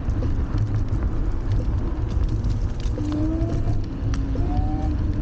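Riding noise from a Wolf Warrior 11+ electric scooter: steady wind buffeting and tyre rumble with scattered small clicks and rattles. A faint whine rises in pitch from about three seconds in.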